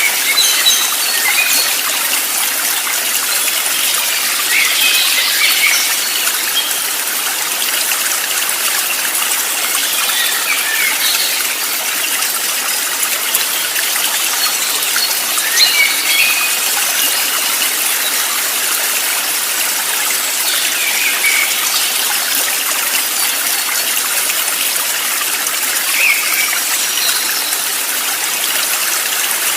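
Steady rush of a flowing stream, with short high bird chirps scattered over it every few seconds.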